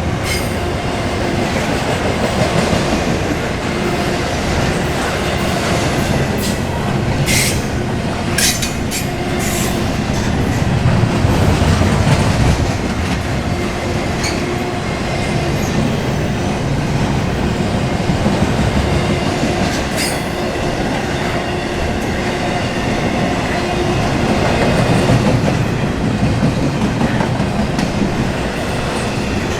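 Intermodal container freight cars rolling past steadily, with wheels clattering over the rail. A few short, sharp metallic sounds come between about seven and ten seconds in and again near twenty seconds.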